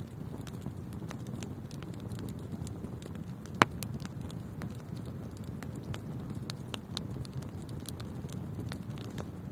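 Wood fire burning in a fireplace: a steady low rumble of flames with frequent small crackles, and one loud pop about three and a half seconds in.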